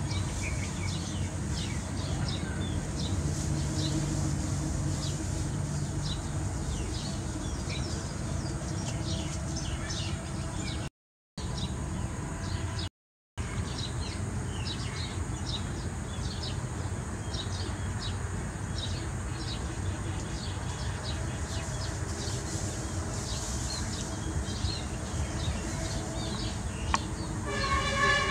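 Birds chirping again and again over a steady low rumble of outdoor background noise. The sound drops out twice, briefly, about halfway through, and a louder, brief pitched sound comes at the very end.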